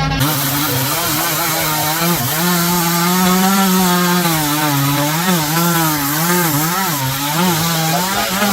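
Chainsaw running under load, cutting wood, its engine pitch wavering up and down as the revs rise and fall.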